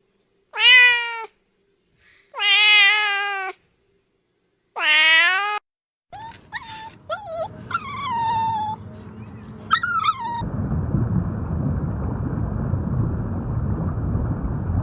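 Domestic cat meowing: three long, drawn-out meows, then several shorter cries over background noise, giving way after about ten seconds to a steady hiss.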